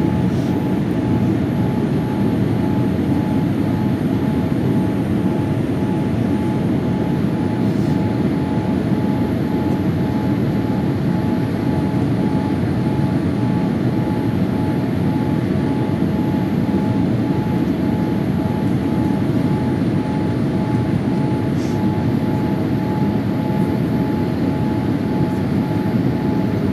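Airliner cabin noise in flight: a steady, loud drone of engines and rushing air, with a faint steady whine on top.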